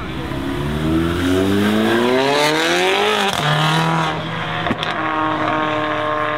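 A modified performance car's engine and exhaust accelerating hard, rising in pitch for about three seconds. The pitch then drops sharply at a gear change and the engine pulls on steadily. There is a single sharp crack shortly after the shift.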